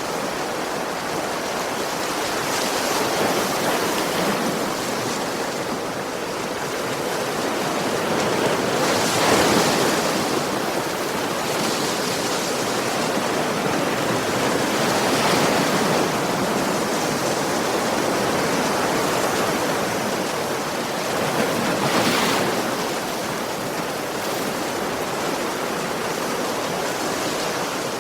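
Ocean waves washing onto a beach: a steady surf hiss, with waves breaking more loudly three times, about six seconds apart.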